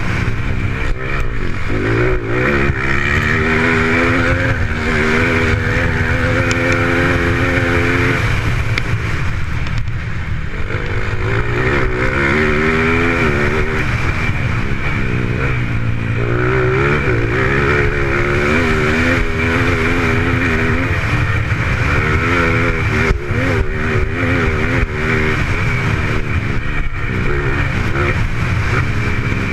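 Dirt-track racing motorcycle engines revving, the pitch climbing and dropping again and again as the bikes accelerate, shift and brake around the course.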